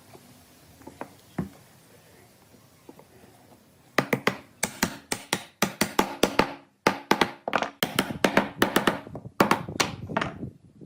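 A few faint knocks, then from about four seconds in a quick, uneven run of sharp taps and knocks, roughly three to four a second with short breaks, each ringing briefly.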